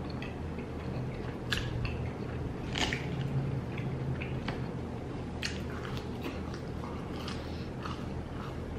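Close-miked chewing and biting on chicken wings: wet mouth smacks and small crackles scattered throughout, with a few sharper clicks about one and a half and three seconds in.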